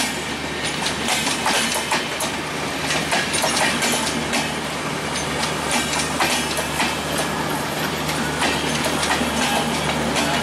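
Passenger coaches of an express train rolling past on the track, their wheels clattering over the rail joints in a quick, irregular run of clicks over a dense rumble, with a steady low hum underneath.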